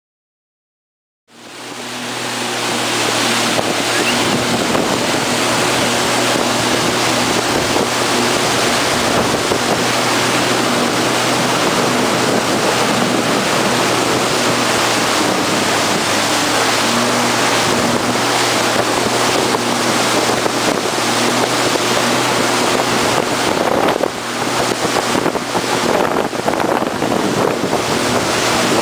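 Bombardier jet ski engine running steadily under way, with the rush of water and wind buffeting the on-board microphone. It fades in about a second in, and dips briefly near the end before turning more uneven.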